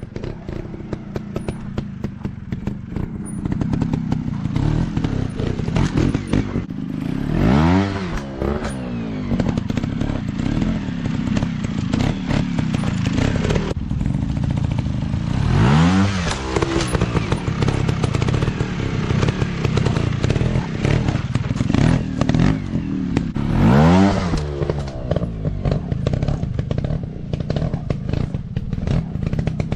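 Off-road dirt bike engines running continuously, revving up hard three times, about eight seconds apart, with clattering and thuds mixed in.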